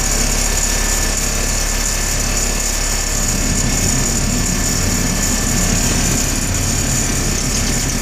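GMC 6500 truck engine running steadily just after a successful cold start in below-zero temperatures, the block heater having done its job. Its low engine note grows stronger about three seconds in.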